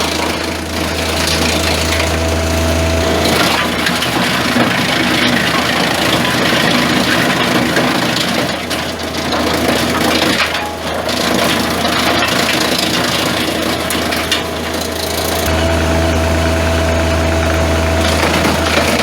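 Wood chipper running and chewing up branches. An engine hum runs steadily at the start and again near the end, and through most of the middle the noise of wood being shredded and crunched covers it.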